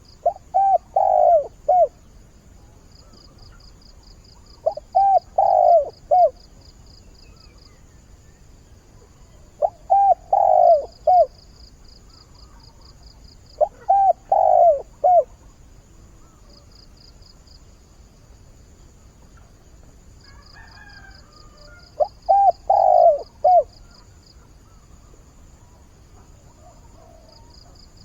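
Spotted dove cooing: five short phrases of several coos each, a few seconds apart. This is a male's calling song to attract a mate.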